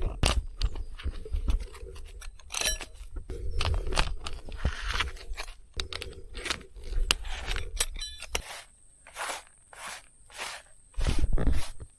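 Camping gear being handled and packed away: irregular scrapes, crunches and clicks, with a rustle about five seconds in and a quick run of ticks a few seconds later.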